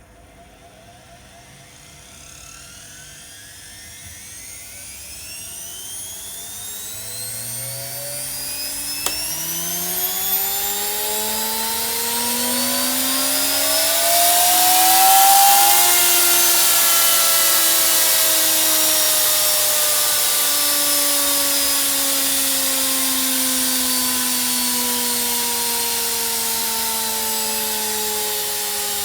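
Washing machine motor running up to speed, its whine climbing steadily in pitch and loudness for about fifteen seconds, then slowly dropping in pitch while still running loud.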